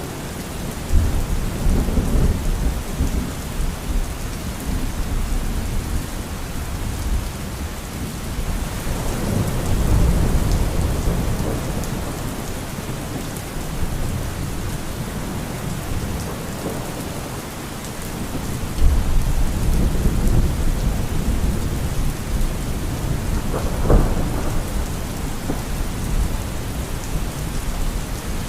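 Thunderstorm: steady heavy rain hissing, with low thunder rumbling in several times and a sharper clap near the end.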